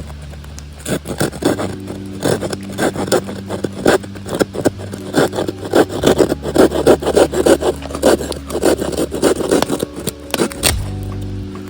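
Folding pull saw (Samurai Kishi 210 mm) cutting through firewood in quick, rasping back-and-forth strokes, several a second for most of the stretch, ending with one sharper stroke near the end.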